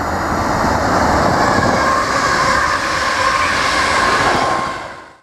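Electric multiple unit train passing close by on the track: a rushing rumble of wheels on rail that swells as it draws level, with a steady high whine through the loudest part, then fading.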